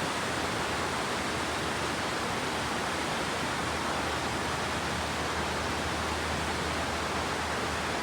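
Vickery Creek's water rushing: a steady, even rush of flowing water.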